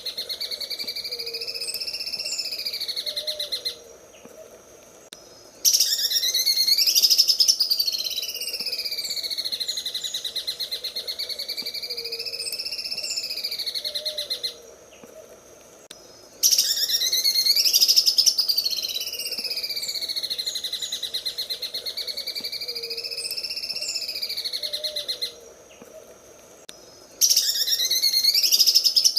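Cucak ijo (green leafbird) singing its 'sewing machine' song: a fast, rattling stream of notes whose pitch swells up and down. The phrases are about nine seconds long, broken three times by pauses of about two seconds, and each phrase repeats with the same shape, as in a looped tutoring recording.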